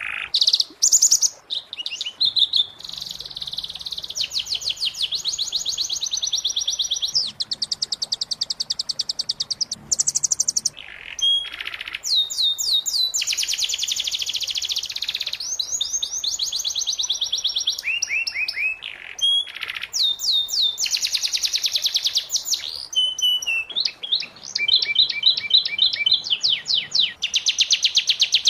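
Domestic canary singing a long, continuous song made of fast trills, repeating one rapid note for a few seconds and then switching to the next phrase, high and bright throughout.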